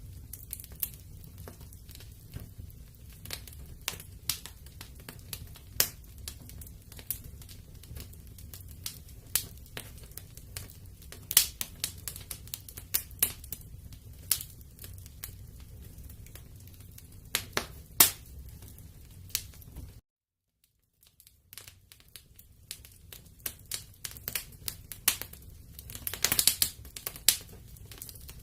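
Wood fire in a fireplace crackling, with irregular sharp snaps over a low steady rumble. The sound drops out completely for about a second roughly two-thirds of the way through, then the crackling resumes, busier near the end.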